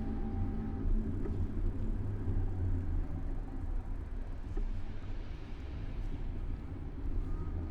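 Steady low rumble of riding noise picked up by a camera mounted on a moving bicycle: road and wind noise mixed with city traffic. A faint thin whine appears near the end.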